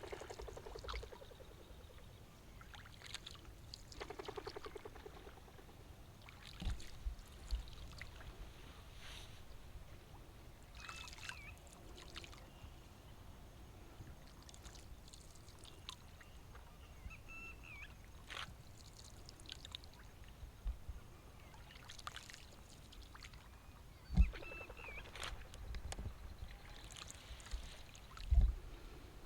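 Water dripping and splashing around a rowboat as it is rowed across the wetland, with scattered short calls of waterbirds. Two sharp knocks near the end, the loudest sounds.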